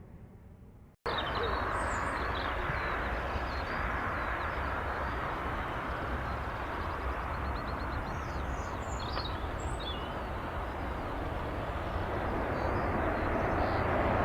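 Intro music fades out, then a Boeing 757 airliner's jet engines run with a steady rushing noise that builds slightly near the end. Small birds chirp over it.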